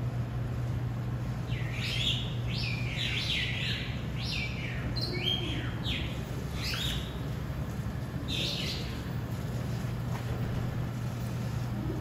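A bird calling in a run of quick, falling chirps for several seconds, then one more a little later, over a steady low hum.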